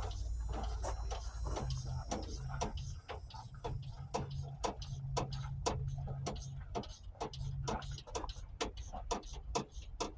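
Socket ratchet clicking in quick, uneven strokes while a bolt is worked loose, over a low steady rumble.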